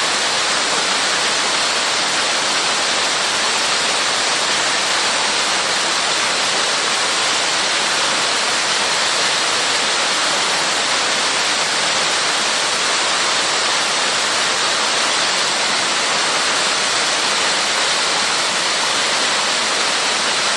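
A 15 m waterfall: a steady, unbroken rush of falling and splashing water, more hiss than rumble.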